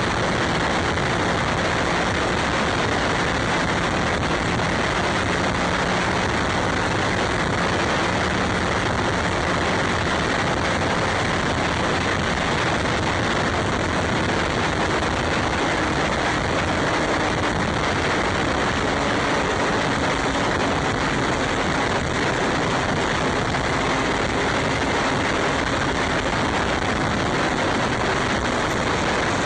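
Steady rush of wind and road noise over the microphone of a moving bike, constant in level, with a faint low hum underneath.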